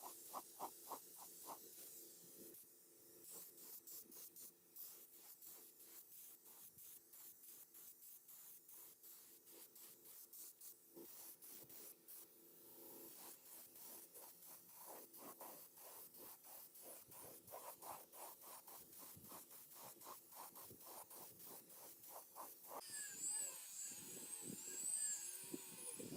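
Faint, steady back-and-forth hand rubbing or scraping strokes on a part, about four a second; a louder, different sound comes in near the end.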